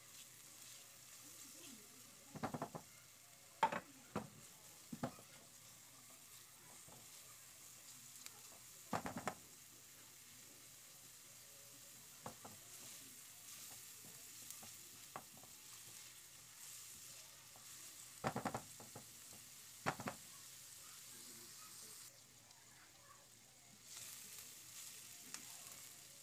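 Chopped garlic and onion sizzling faintly in hot oil in a frying pan, with a spatula scraping and knocking against the pan now and then as they are stirred.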